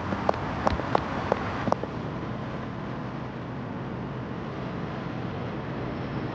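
Sharp, evenly spaced steps or clicks, about three a second, stop about two seconds in. Under them is a steady rumble of vehicle or traffic noise.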